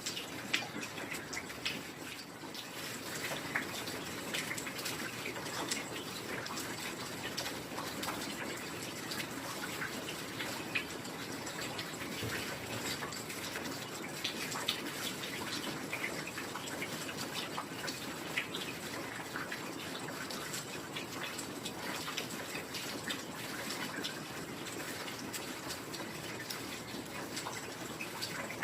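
Heavy rain falling steadily: an even hiss dotted with many sharp drop ticks.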